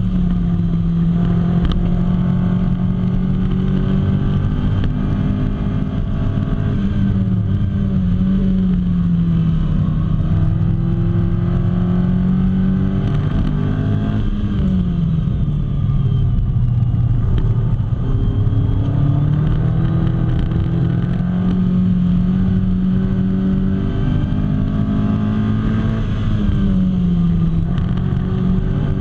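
Lotus Elise's four-cylinder engine at racing speed, heard from inside the cabin. It holds high revs, then the pitch falls and climbs back up three times: briefly about a third of the way in, deeply around the middle, and briefly near the end.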